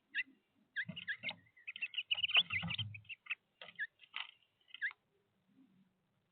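Small birds chirping in quick, high, short calls, a busy flurry for a few seconds, with a few low thumps among them.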